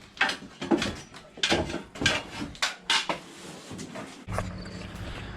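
Irregular metal clanks and scraping, a dozen or so sharp knocks of objects being handled. A low steady hum starts about four seconds in.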